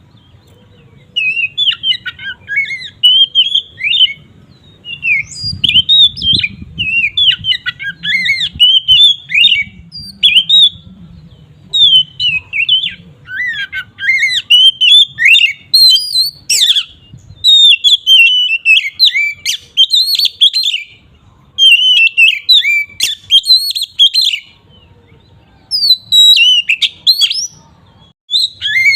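Oriental magpie-robin (kacer) singing loudly in full 'ngeplong' song: rapid runs of varied sliding whistles and chatters, each burst a second or two long with short breaks between. This is the kind of song used to provoke other magpie-robins into singing.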